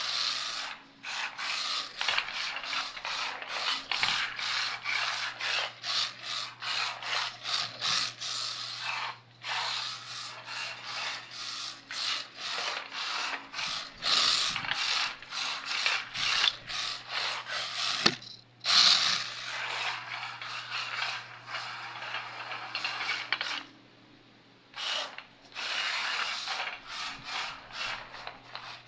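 RC drift car's tyres sliding and scraping across a smooth floor in rapid, uneven bursts with brief pauses, over a faint steady hum.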